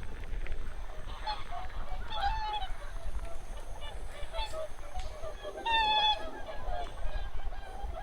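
A flock of wild geese calling, many short honks overlapping, with one louder nearby honk about six seconds in.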